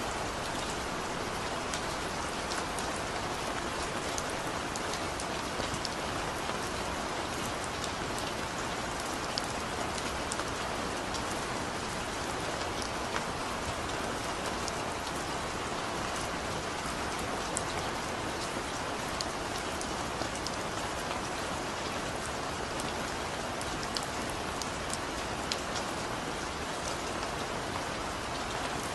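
Heavy rain falling steadily onto a surface, a dense even hiss sprinkled with many sharp individual drop splats.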